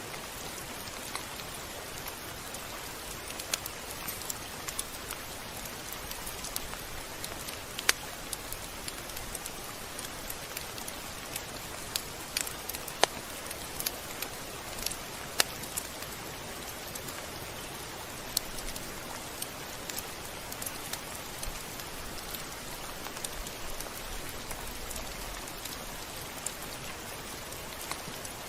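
Steady rain, a continuous hiss with scattered sharp drop ticks on a surface, a few of them noticeably louder.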